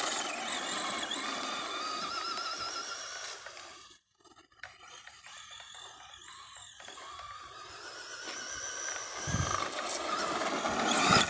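Electric motor of a Traxxas radio-controlled car on a 2S battery, whining as the car drives off. It fades almost to nothing about four seconds in, then grows louder again as the car comes back, with a low thump about nine seconds in.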